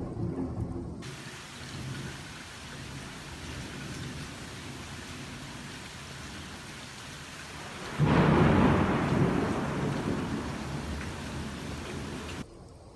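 Thunderstorm: steady rain hiss with a fading low rumble at first, then a sudden loud thunderclap about eight seconds in that rolls and dies away over several seconds. The rain sound cuts off suddenly near the end.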